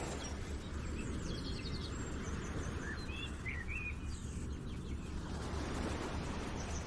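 Steady background noise with a few short bird chirps near the middle.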